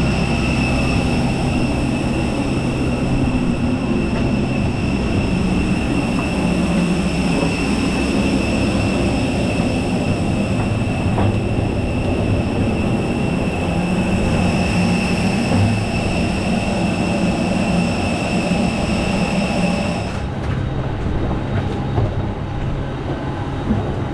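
Steady airliner turbine whine and rumble, with several high whistling tones held over a low rumble. The whistling tones stop about twenty seconds in, leaving a quieter rumble.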